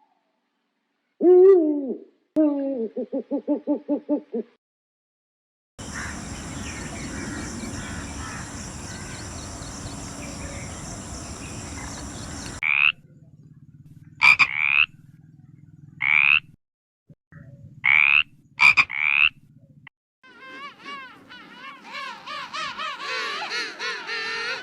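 A run of different animal calls, one recording after another: a falling call, a rhythmic pulsed call, a steady noisy stretch with high ringing tones, a set of short rising calls repeated over a low hum, and near the end a dense run of warbling calls.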